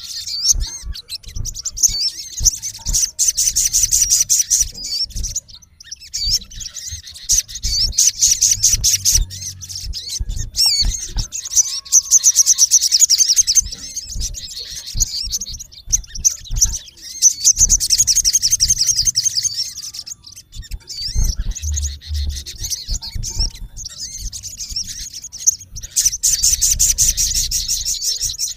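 Male olive-backed sunbird giving harsh, rapid, high-pitched trilling calls at a rival, in repeated bursts of a few seconds each with short pauses between.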